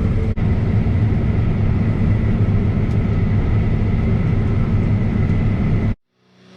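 New Holland CR 9.90 combine harvester's Cursor 13 diesel running steadily: a low engine drone with a faint high whine. It cuts off abruptly near the end.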